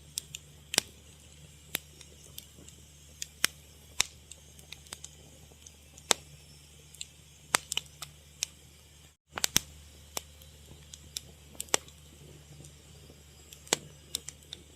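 Wood fire crackling: irregular sharp pops and snaps over a low steady rumble. The sound cuts out for a moment about nine seconds in.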